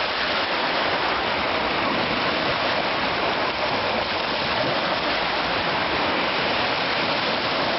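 Black Sea surf washing on the shore in a steady, even hiss, with no separate wave breaks standing out.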